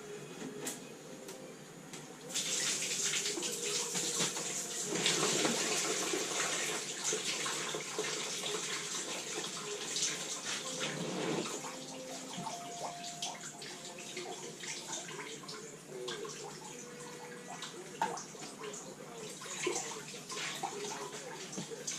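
Liquid running and splashing, starting suddenly about two seconds in, with small clicks and knocks mixed through it.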